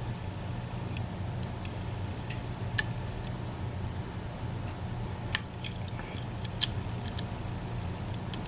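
Lock picks working the sliders of an EVVA ICS dimple lock: scattered small metallic clicks and ticks, three sharper ones near three, five and a half and six and a half seconds in, over a steady low hum.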